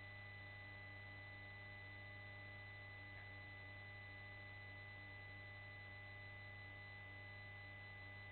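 Near silence: a faint, steady hum on a helicopter intercom feed whose microphones are switched off for takeoff.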